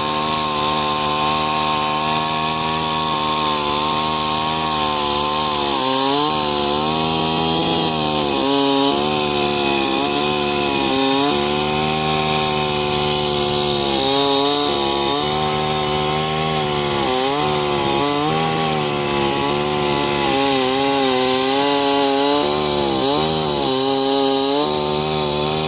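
Holzfforma G660 two-stroke chainsaw mounted on an Alaskan chainsaw mill, running at high revs through a cut. Its pitch dips briefly again and again as the chain takes load in the wood.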